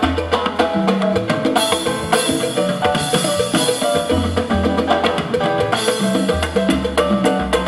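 Live salsa band playing an instrumental passage: a repeating bass line, short repeated piano figures and a steady beat of drums, wood block and other hand percussion.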